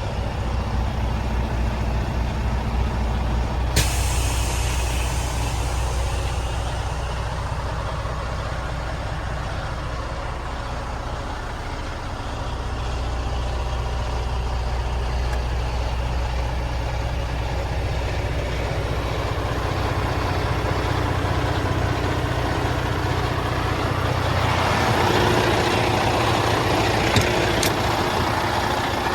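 Emissions-deleted Detroit DD15 diesel engine of a heavy truck running steadily. A sudden hiss of air comes about four seconds in and fades over a second or two. The sound grows louder for a few seconds near the end.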